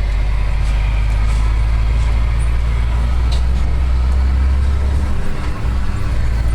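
Steady low rumble of a road vehicle travelling along a highway, with an even noise over it, easing briefly about five seconds in.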